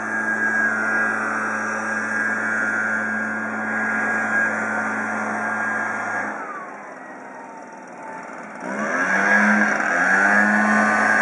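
Kawasaki backpack blower engine running at high throttle while blowing snow. About six seconds in it eases off, its pitch falling toward idle, then it revs back up about three seconds later.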